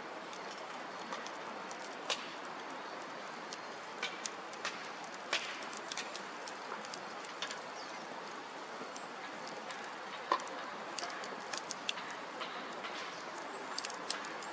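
Bonfire crackling: a steady rushing noise with sharp pops and snaps at irregular moments.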